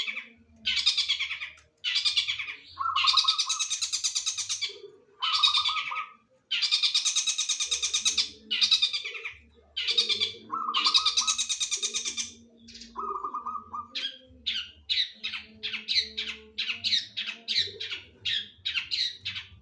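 Long-tailed shrike (cendet) singing loud, harsh, rattling phrases of about a second each with short gaps between, mimicking kingfisher (tengkek) calls; about two-thirds of the way through the phrases give way to a fast string of short notes, about three a second.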